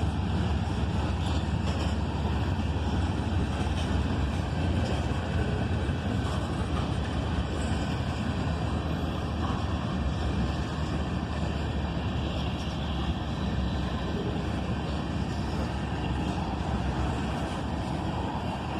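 Ethanol freight train passing, a steady rumble with no breaks or changes.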